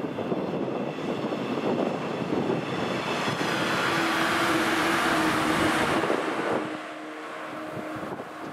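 A JNR 115 series three-car electric train passing close by on the track. Its running noise builds to its loudest about four to six seconds in, with a steady hum appearing in the second half. It then fades as the train moves away.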